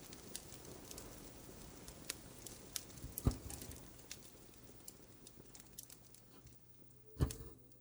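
Wood fire crackling: scattered small, sharp crackles over a low steady hiss, with two louder pops about three seconds and seven seconds in.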